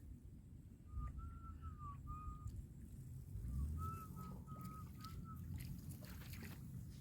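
Two runs of short, clear whistled notes at about one pitch, four or five notes in each run, some bending slightly, over low rumbling handling noise.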